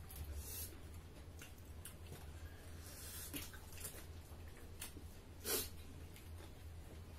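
Close mouth sounds of people eating with their hands: chewing, lip smacks and small wet clicks scattered irregularly, the loudest about five and a half seconds in, over a steady low hum.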